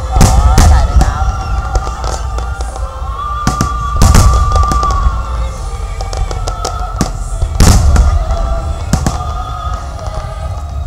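Aerial fireworks going off in repeated booms and crackles, the heaviest clusters near the start, about four seconds in and near eight seconds, with music playing underneath.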